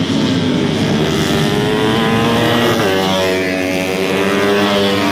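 Two-stroke racing motorcycle engines running hard, the pitch climbing and then changing about three seconds in.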